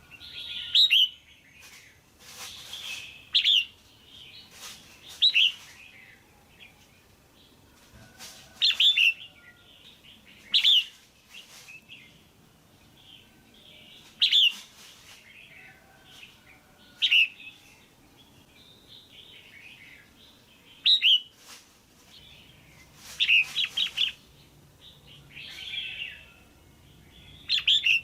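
Female red-whiskered bulbul calling, the kind of call played to stir up males or pair birds. Short, loud, clear chirps come every second or two, some in quick runs of two or three.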